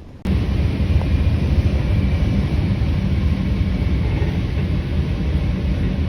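Moving train: a loud, steady rumble and rushing noise that cuts in suddenly just after the start.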